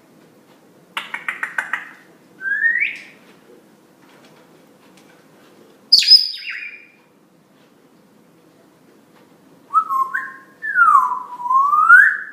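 Pet parrot calling: a quick rattle of clicks about a second in, then a short rising whistle, a sharp squawk midway, and near the end a run of whistles that drops, dips low and sweeps back up.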